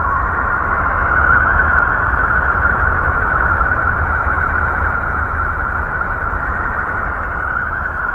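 Sonified 'planet sound' made from spacecraft data: a steady, unbroken noisy drone with a hissing band in the upper middle and a deep rumble beneath, swelling slightly about a second in.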